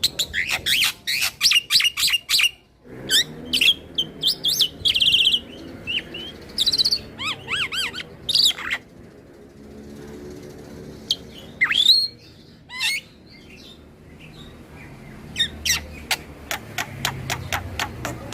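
Black-winged myna (jalak putih) singing in loud, varied bursts: harsh chattering calls, rapid clicks, rising and falling whistles and a short trill. The bird pauses twice before starting up again near the end.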